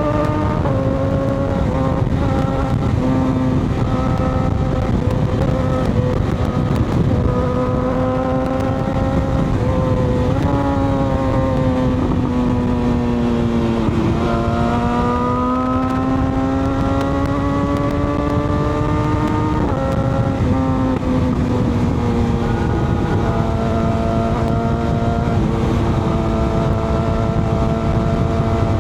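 Motorcycle engine heard while riding, over a steady rush of wind and road noise. The engine note rises and falls with the throttle and jumps in pitch several times, with a deep dip and climb about halfway through and a few sharp steps down near the end.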